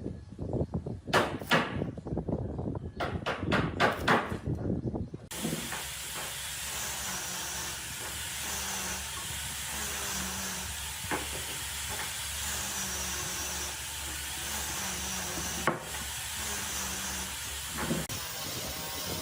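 Several sharp knocks, like wood being struck, then, after an abrupt change, a steady hissing tool noise that swells and eases every couple of seconds, with a few single clicks.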